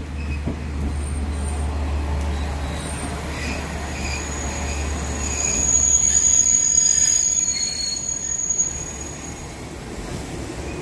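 Diesel train of a KiHa 47 railcar and a second car running into the station, its engine giving a low steady hum. From about four seconds in a high, steady wheel squeal rises over it. The squeal is loudest midway and fades out near the end as the cars slow past the platform.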